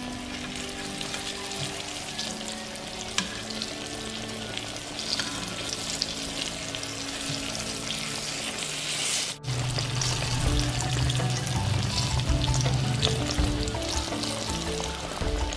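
Saba banana fritters (pinaypay) deep-frying in hot oil, a steady crackling sizzle. Background music runs underneath and gets louder and bassier about nine seconds in.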